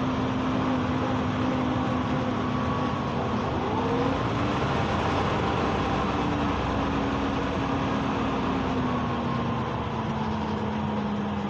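Hyundai New Super Aero City city bus driving, heard from inside the cabin: a steady engine and drivetrain hum over road noise. Its pitch rises about four seconds in and falls slowly near the end.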